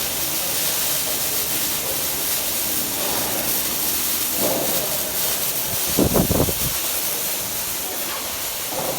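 Welding arc hissing steadily, with a brief louder burst about six seconds in.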